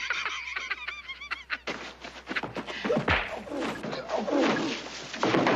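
Fistfight: a run of punches and thuds, with a heavy thud about three seconds in, under men's wordless hollering and wavering yells.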